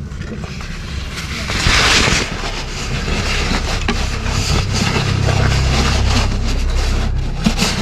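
A motor or engine running with a low, steady hum that grows stronger about five seconds in, with a short rushing hiss about two seconds in.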